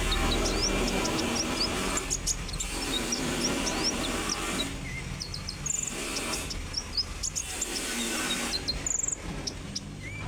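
Konin songbird chirping: a scatter of short, very high, thin chips and quick upward-flicking notes, over a steady hiss-like background noise.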